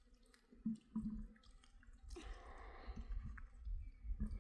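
Water pouring and splashing as hands are washed, heaviest from about two seconds in, with a few light knocks.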